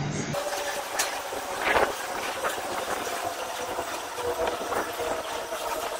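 Freight train's refrigerated container wagons rolling past at speed: a steady rush of wheels on rail with scattered clicks as the wheels run over the track.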